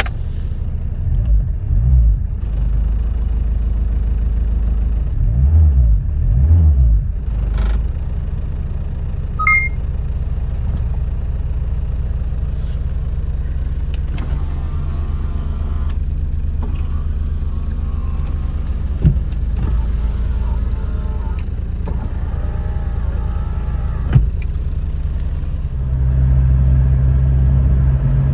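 Turbodiesel four-cylinder of a 1990 VW Golf 2 GTD running, its low rumble rising and falling over the first several seconds, then settling to a steady note. It gets louder again near the end.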